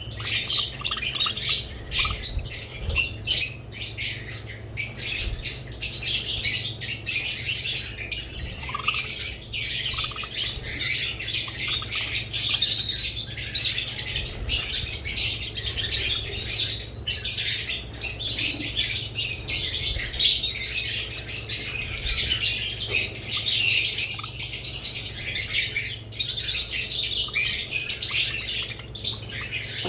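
A flock of budgerigars and lovebirds chirping and chattering without pause, many high, quick calls overlapping, with the odd squawk.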